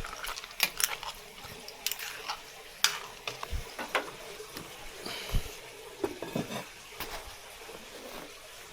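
Light kitchen clatter: a utensil clinking and knocking against cookware, in irregular sharp clicks over a faint hiss.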